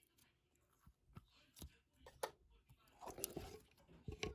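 Faint, scattered taps and crackly handling sounds from hands working soft lightweight modelling clay (iClay), with a louder crackly stretch about three seconds in.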